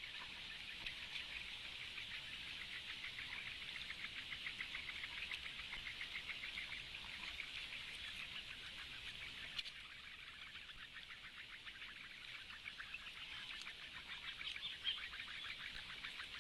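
Birds calling in a reedbed: a dense, rapid run of high ticking chirps that hardly lets up.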